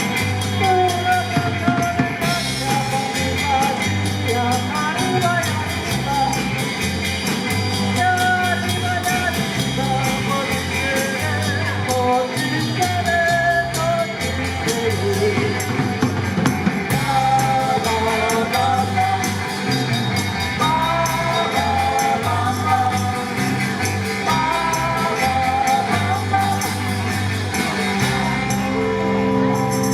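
Live rock band playing a song: bass notes and drum kit keeping a steady beat under a wavering melody line.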